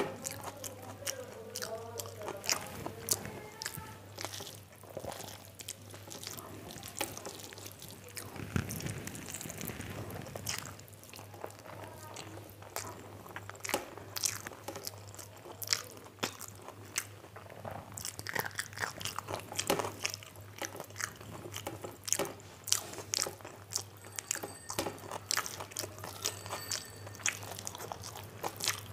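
Close-up eating sounds of a person chewing rice and curry eaten by hand: wet chewing, lip smacks and many short clicks, with a steady low hum underneath.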